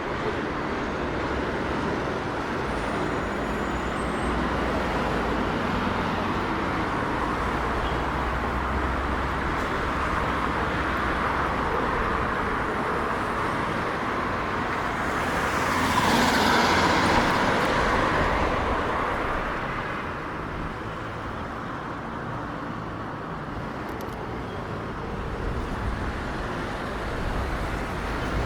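Steady city street traffic noise with a low rumble, one vehicle passing close by a little past the middle, rising and then fading.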